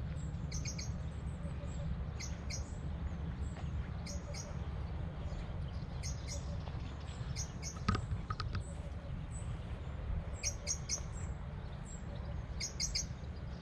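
A small bird calling: short runs of about three high, thin chirps, repeated every few seconds over a steady low rumble, with a single click about eight seconds in.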